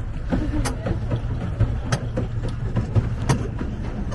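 Pedal boat's pedal drive clicking and creaking, with irregular sharp clicks about every half second to second over a steady low rumble. The drive is stiff and unoiled, and its noise is called a scary "Halloween sound".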